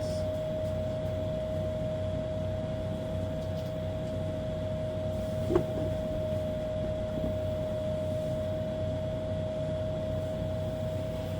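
Steady mechanical hum with a constant mid-pitched tone, and a single sharp click about halfway through.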